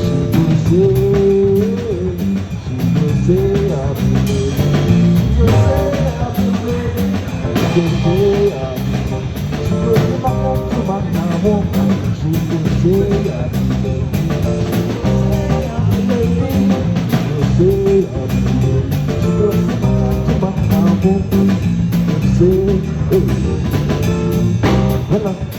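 Live band playing an instrumental passage: a guitar melody with bent notes repeating every couple of seconds over bass and drum kit.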